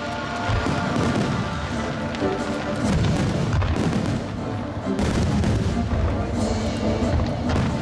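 Fireworks shells bursting with deep booms, several a couple of seconds apart, over music that accompanies the display.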